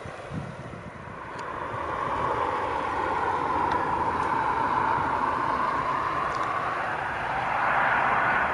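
Boeing 737-800's CFM56-7B jet engines on landing approach, their whooshing noise growing louder about a second in as the airliner draws near, then rising in pitch and peaking near the end.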